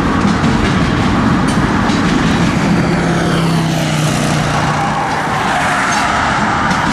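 Empty tank cars at the end of a freight train rolling past: a steady, loud rumble of wheels on rail, with a falling pitch glide midway.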